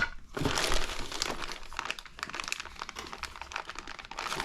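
Plastic kit parts bags crinkling as they are handled and rummaged through, a dense, irregular crackle.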